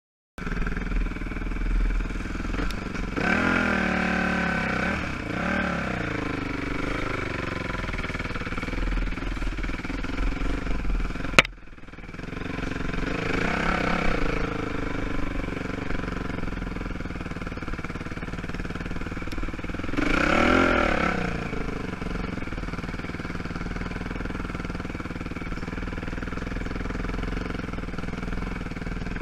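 ATV (quad) engine running along a trail. It revs up and eases off three times, a few seconds in, about 14 seconds in and about 20 seconds in, with steadier running in between. A sharp click about 11 seconds in is followed by a brief dip in the engine sound.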